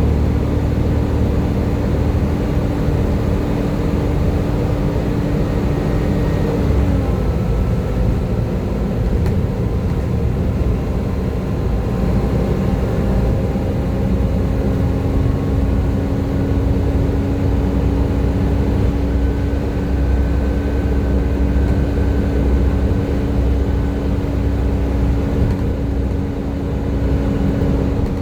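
Volvo B7TL bus running under way, its engine a steady low rumble with a continuous whine over it, the 'hoover' sound. The whine drops slightly in pitch about seven seconds in and then holds steady.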